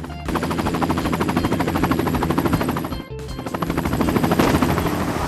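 A fast, even rattle of rapid strokes, as from a sound effect, over steady background music. It breaks off briefly about three seconds in, then resumes.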